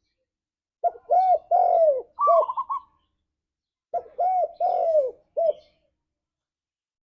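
Spotted dove cooing: two phrases of several deep, arching coos, the first ending in a quick run of shorter, higher notes, with a pause of about a second between them.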